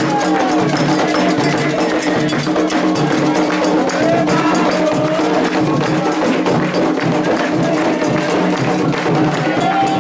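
Candomblé ritual music: fast, steady percussion strikes with a ringing bell-like tone and voices chanting.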